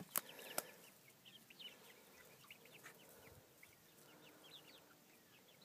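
Faint calls of chickens: many short, high peeps and chirps, with two sharp clicks in the first second.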